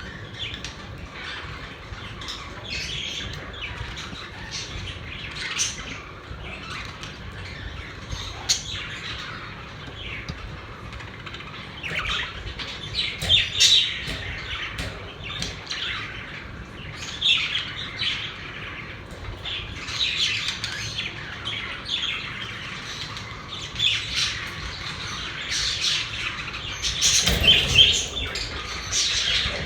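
Pet budgerigars chirping and squawking, a busy stream of short calls that gets louder and busier partway through, over a steady low hum.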